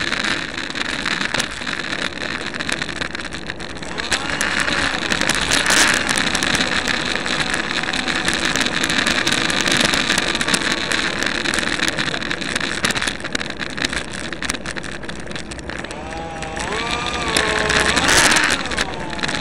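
A 70 mm electric ducted fan on a radio-controlled F-16 jet whining steadily in flight, with air rushing past the airframe, heard from on board. Its pitch wavers up and down a few times near the end.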